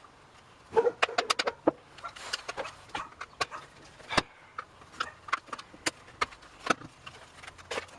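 Hand tools and small chainsaw parts being handled, clicking and clattering: a quick run of sharp clicks about a second in, then scattered knocks and taps.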